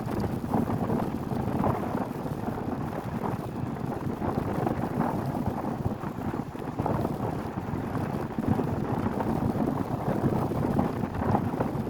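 Strong wind buffeting the microphone: a steady, gusty rumble.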